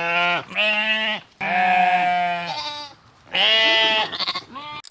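Sheep bleating: a series of about four drawn-out baas with short gaps between them.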